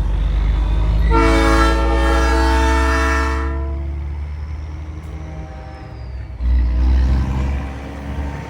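Nathan AirChime P3 train horn sounds one chord blast of about two and a half seconds over the steady low drone of a diesel truck engine. A loud low rumble swells briefly about six and a half seconds in.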